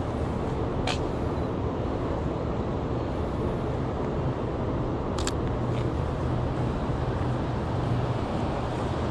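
Steady low rumble of city street traffic, with two short clicks of a Canon EOS R's shutter, about a second in and about five seconds in.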